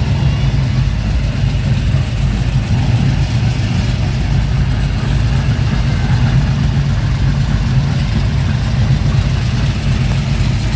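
A car engine idling steadily at close range, a constant low running note with no revving.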